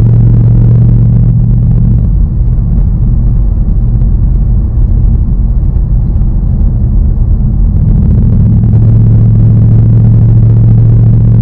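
2019 Ford Mustang Bullitt's 5.0-litre V8 running while the car is driven, a loud steady low drone that eases off about two seconds in and comes back strong near the end.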